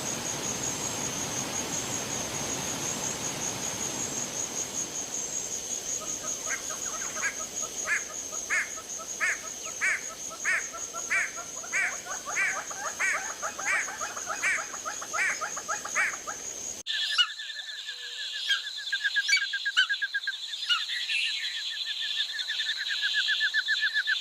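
Animal chorus of insects and frogs: a steady high-pitched insect whine, joined about six seconds in by a call repeated roughly every half second. The sound cuts abruptly about seventeen seconds in to a different chorus of fast pulsing trills at two pitches.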